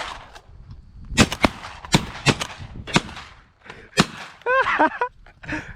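A volley of shotgun shots from a duck hunting party: about eight sharp blasts in the first four seconds, several close together, with a short wavering call or shout near the end.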